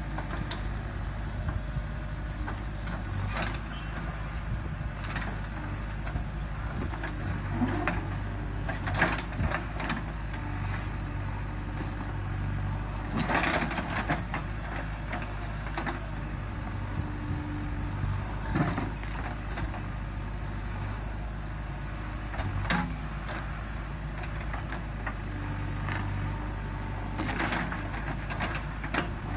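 JCB 3DX backhoe loader's diesel engine running steadily, with short knocks and clanks at uneven intervals of a few seconds.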